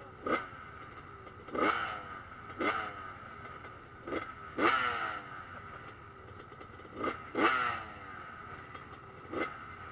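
Motocross bikes racing past one after another, each engine revving hard in a short burst and falling away, about eight times, over the steady drone of other bikes elsewhere on the track.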